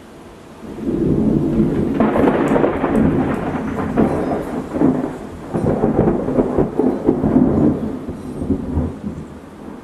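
A thunderclap rolling: a low rumble builds about a second in, sharp crackling joins it from about two seconds, and it rolls on in loud surges before dying away near the end.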